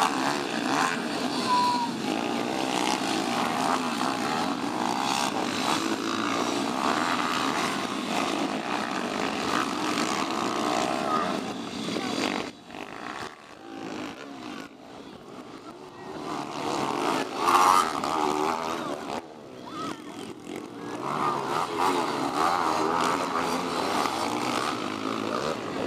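Several pit bike engines revving and shifting together as the bikes race on a motocross track, their pitches rising and falling. The sound drops away suddenly about halfway through, surges once as a bike passes close, then builds back to a steady din near the end.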